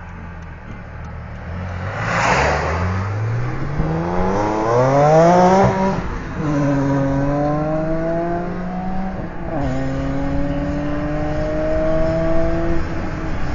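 BMW Z4 M Coupe's S54 straight-six through a full Supersprint exhaust with headers, accelerating hard through the gears. The engine note climbs in pitch and drops sharply at upshifts about four, six and nine and a half seconds in, then eases off near the end.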